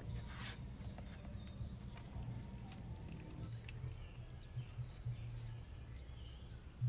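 Steady high-pitched insect drone, such as crickets or cicadas, with a low rumble beneath it and a few faint clicks.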